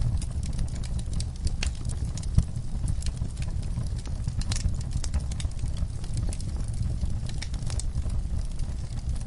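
Fire crackling: irregular sharp pops and snaps over a steady low rumble, with one louder pop about two and a half seconds in.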